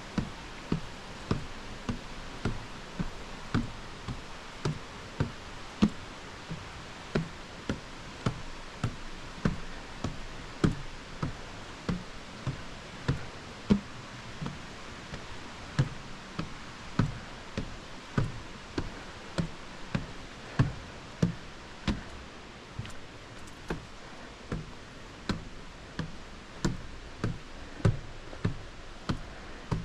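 Footsteps on a trail's steps, a steady walking rhythm of about two knocking footfalls a second.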